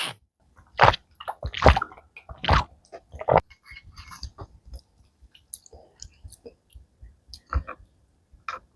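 A person eating malatang close to the microphone: four loud wet slurps in the first few seconds, then quieter chewing and mouth clicks, with two more slurps near the end.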